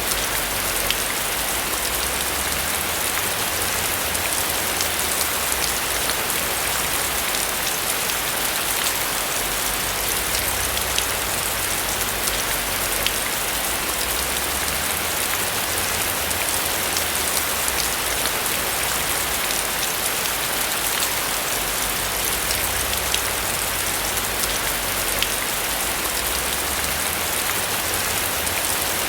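Steady, heavy rain falling on a roof: a dense, even hiss sprinkled with sharp ticks of single drops, over a soft low rumble.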